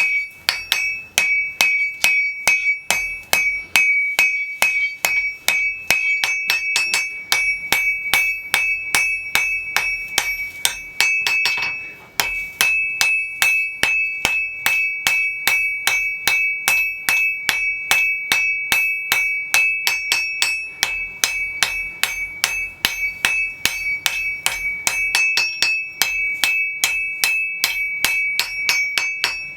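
Hammer blows on an anvil at a steady pace of about three a second. Each strike leaves a high ring from the anvil, with a short break about twelve seconds in. This is forging a damascus steel billet.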